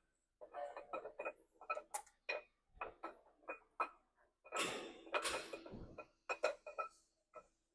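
Irregular metallic clicks and clinks, some with a short ringing tone, from metal tools and engine parts being handled, with a brief scraping rattle about halfway through.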